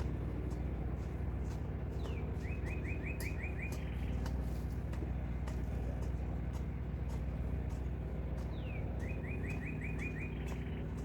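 A small songbird sings the same short song twice: a falling note, a quick run of about seven chirps and a short buzzy ending. Under it runs the steady low hum of an idling engine, with scattered faint clicks.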